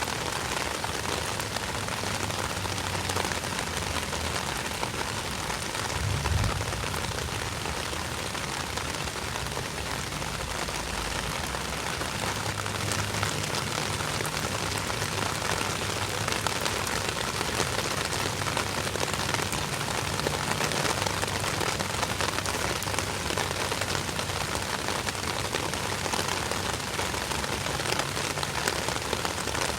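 Steady rain falling and pattering on surfaces, an even dense hiss. There is a brief low rumble about six seconds in.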